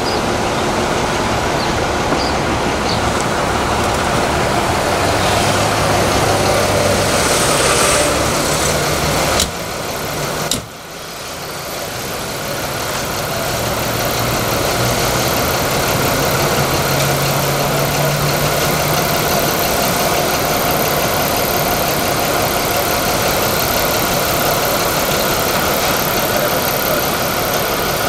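A motor vehicle engine idling under a steady noisy hiss. The sound drops away suddenly about nine and a half seconds in, dips again near eleven seconds, then slowly builds back to the same steady level.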